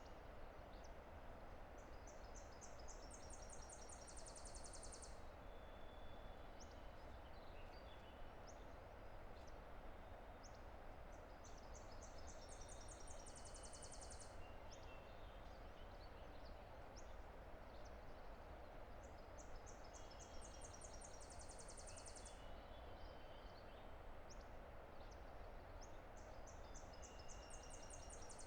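Faint, steady rush of a distant river, with a songbird repeating a high song four times, about every eight seconds: a run of quick notes that speeds up into a fast trill. A few short, lower whistled notes come between the songs.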